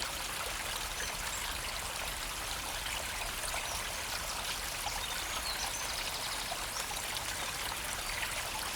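A shallow river, running low, flowing with a steady, even trickling rush of water.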